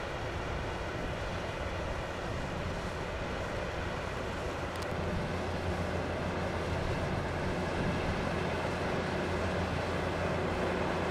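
Jet airliner engines running with a steady rumble and hiss, slowly growing louder.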